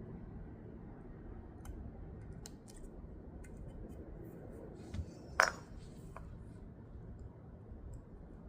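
Scattered light clicks and taps of small objects being handled, with one sharp, much louder click about five and a half seconds in.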